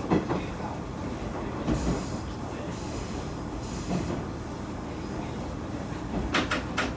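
Diesel railcar running along a local line, heard from on board: a steady rumble of wheels on track. A high-pitched wheel squeal comes twice, at about 2 and 4 seconds in, and a quick series of sharp clicks comes near the end.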